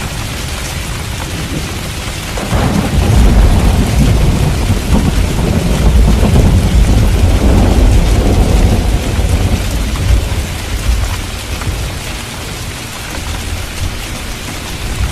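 Steady heavy rain, with a long rumble of thunder that swells about two and a half seconds in and dies away around ten seconds.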